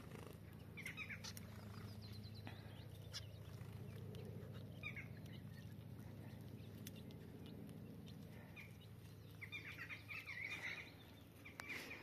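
Faint short chirps and calls from small aviary birds feeding, scattered a few at a time with a busier cluster near the end, over a low steady background hum.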